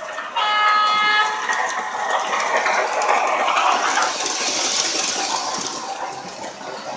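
Lionel R16 model subway train's onboard sound system: a brief two-note tone held for about a second near the start, then a swelling rush of running noise that rises in pitch over a few seconds and then eases.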